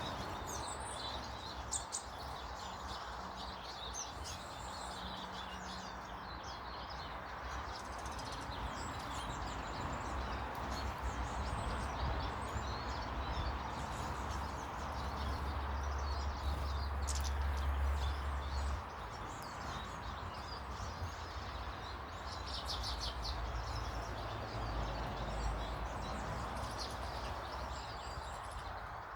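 Small birds chirping and calling on and off, over a steady background hiss and a low rumble that swells for a few seconds in the middle.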